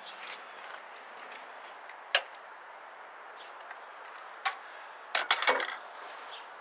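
Sharp clicks and clinks of small parts or tools being handled: one click about two seconds in, another about four and a half seconds in, then a quick cluster of several just after five seconds.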